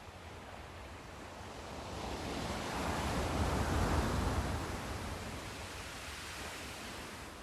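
Sea surf: a wave builds to a peak about halfway through, then washes back and fades.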